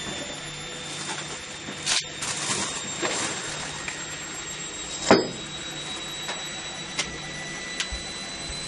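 A few separate knocks and clunks over a steady electrical hum and hiss, the loudest about five seconds in.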